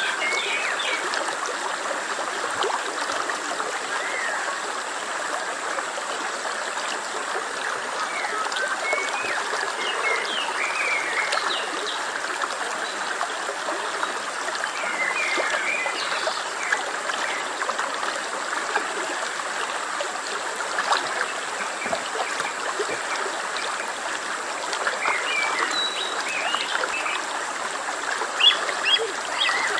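Stream running steadily over stones, with small birds chirping now and then, in clusters near the start, in the middle and near the end.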